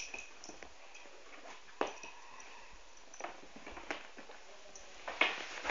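Scattered light taps and clicks at uneven intervals, the loudest a few seconds in, over a faint background.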